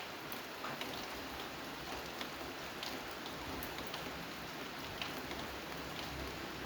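Steady rain falling, a constant hiss with scattered individual drops ticking sharply on a hard surface.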